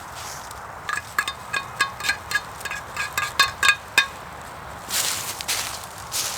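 Rapid metallic clinks, about fifteen quick strikes that each ring briefly, as of metal cutlery on a metal dish; near the end a crunching rustle.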